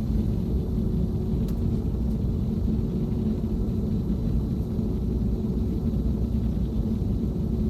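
Cabin noise inside an Airbus A321neo on the ground before takeoff: a steady low rumble with a constant hum from its Pratt & Whitney PW1100G geared turbofans running at low power.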